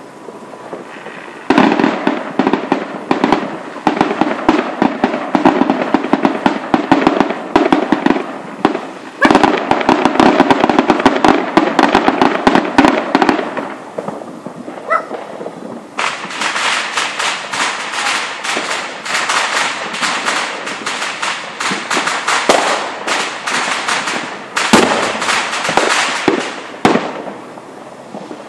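Fireworks going off in rapid, dense crackling barrages of many sharp bangs: one run of about twelve seconds, a short lull, then a second run of about eleven seconds.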